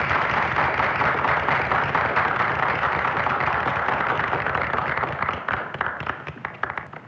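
Club audience applauding, thinning into scattered single claps and dying away near the end.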